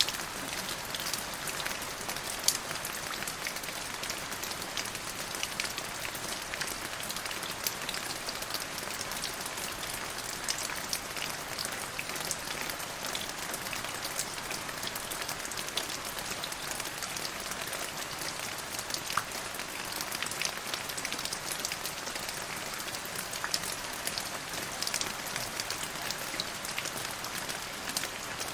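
Steady rain falling: an even hiss full of small drop ticks, with one louder drop strike about two and a half seconds in.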